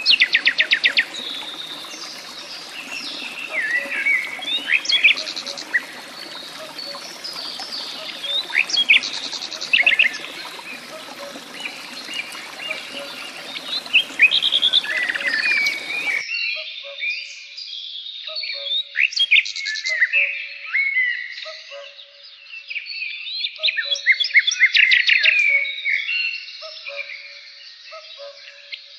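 Several birds chirping, with fast rattling trills every few seconds. About halfway through, the background hiss drops out suddenly, leaving only the bird calls and a short low note repeating about once a second.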